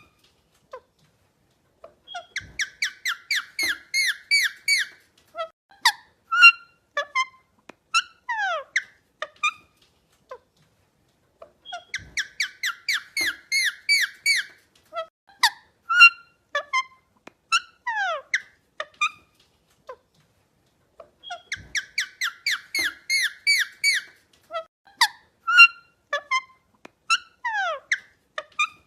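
Parrot calls: a fast run of short, high chirps, about five a second, followed by single whistled notes and falling glides. The same sequence comes three times, about every nine and a half seconds, like a repeated recording.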